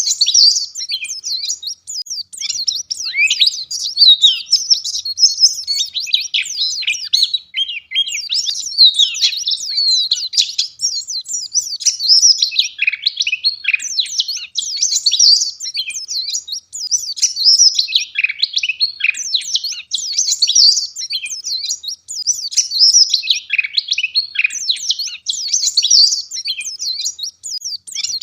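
White-eye (pleci) singing a rapid, high-pitched twittering song in long dense phrases, with only brief pauses.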